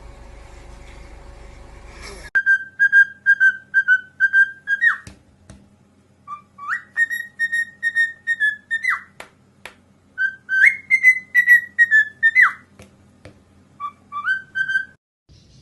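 A steady hum cuts off about two seconds in, followed by high whistling. The whistling comes in four short runs of quick repeated notes, each run ending in a sharp swoop in pitch.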